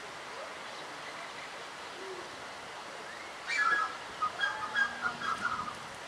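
A bird calling in a quick run of short whistled notes, starting about three and a half seconds in, over a steady background hiss.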